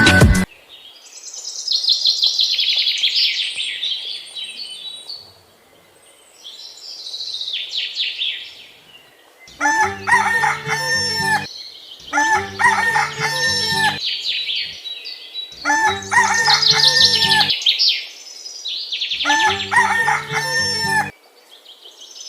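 High bird-like calls, several in a row, and about nine seconds in a short musical phrase starts and repeats four times beneath them.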